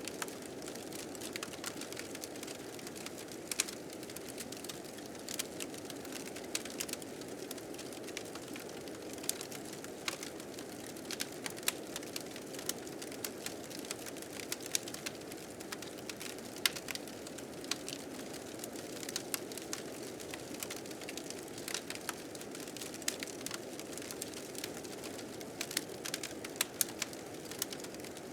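Blizzard wind blowing steadily with a fire crackling over it, giving frequent sharp, irregular pops.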